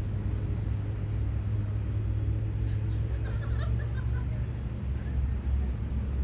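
Steady low engine rumble from a vehicle, with a brief cluster of faint higher-pitched sounds about three seconds in.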